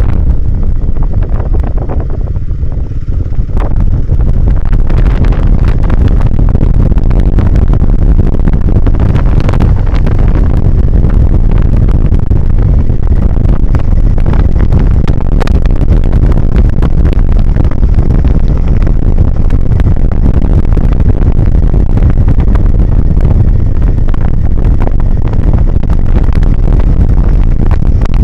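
Motorcycle riding on a trail, heard through a bike-mounted camera: loud, steady wind noise on the microphone over the running engine and tyres. It eases briefly about two to three seconds in.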